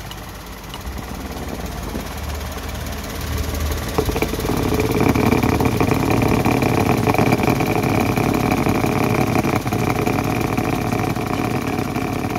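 Suzuki Alto K10's three-cylinder petrol engine (1.0-litre K10B) idling steadily just after being started, heard close up under the open bonnet. It gets louder about four seconds in.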